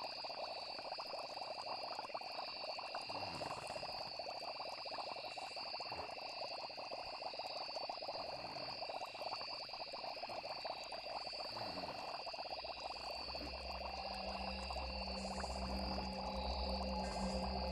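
Night chorus of frogs and chirping insects, steady high trilling over a dense croaking texture. A low, steady musical drone fades in about two-thirds of the way through and grows louder toward the end.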